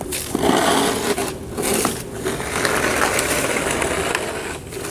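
Snow shovel scraping and pushing through fresh snow in a few long strokes.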